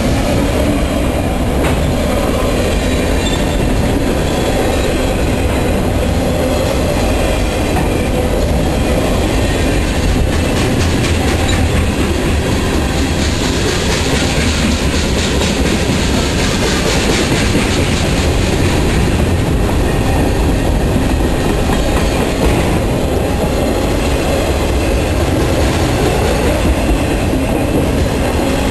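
Freight train cars, autoracks and covered hoppers, rolling past at close range: a steady rumble of steel wheels on rail, with rhythmic clacking over rail joints that is most distinct around the middle.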